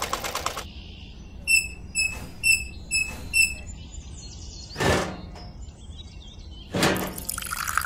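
Five short, high electronic beeps, about two a second, followed by two whooshes. A steady rushing sound starts near the end.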